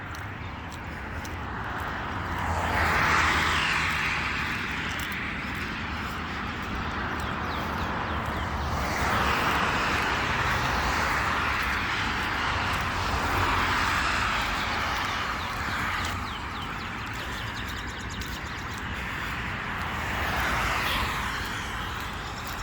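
Traffic passing on a parkway: tyre and road noise from several vehicles swells and fades, loudest about three seconds in, through the middle stretch and again near the end, over a low steady rumble.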